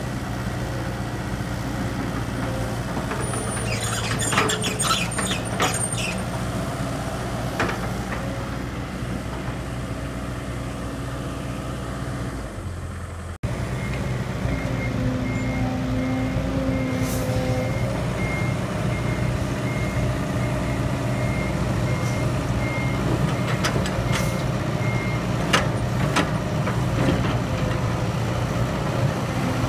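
Heavy diesel engines of an excavator and a dump truck running steadily, with a short run of metallic clanks about four seconds in. After a cut partway through, a backup alarm beeps at an even pace for about ten seconds.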